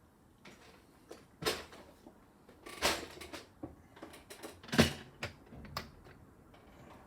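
Plastic Lego pieces being handled and pressed together: an uneven run of small clicks, taps and rattles, the loudest just under five seconds in.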